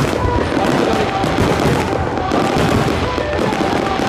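Aerial fireworks bursting and crackling in a dense, continuous barrage.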